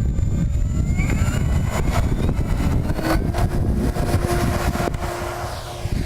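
The twin electric motors and propellers of a radio-controlled B-25 Mitchell model run up, rising in pitch and then holding a steady whine. A heavy rumble of wind on the microphone runs underneath.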